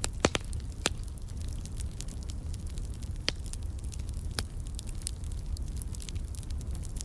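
Wood fire crackling, with fine ticks over a steady low rumble and a few sharper pops, the loudest just after the start.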